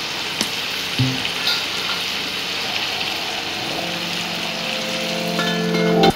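Potato sticks sizzling steadily as they fry in oil in a pan, with a few light clicks from the spatula. Background music with held notes comes in about four seconds in and grows louder.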